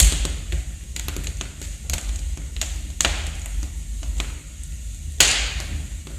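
Wood fire crackling in a fireplace, with irregular sharp pops and snaps over a low steady rumble. The loudest pop comes about five seconds in.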